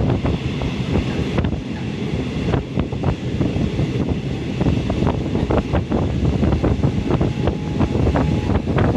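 Passenger train running on the Suphan Buri line: a steady low rumble of wheels on the track with wind buffeting the microphone, and frequent short clicks and rattles throughout.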